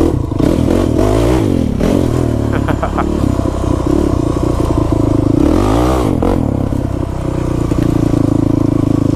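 Quad (ATV) engine idling while it warms up, revved twice, about a second in and again around six seconds, each rev rising and settling back to idle.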